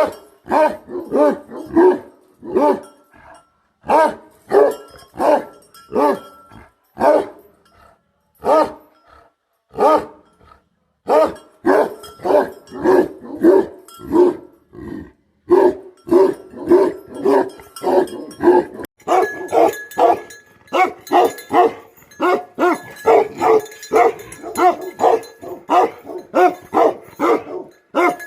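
Bhote Kukur guardian dog barking over and over in deep barks, one to two a second with short pauses. The barking comes faster and more continuous in the second half.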